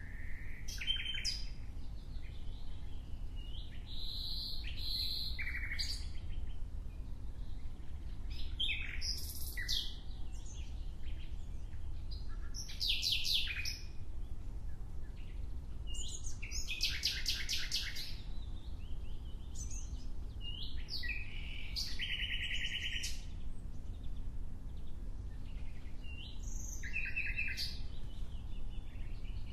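A songbird singing short phrases every few seconds, many of them fast trills of high notes, over a steady low rumble.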